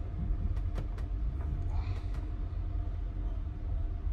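Steady low rumble of a moving passenger sleeper coach heard from inside its compartment: wheels running on the rails, with a few light clicks and knocks along the way.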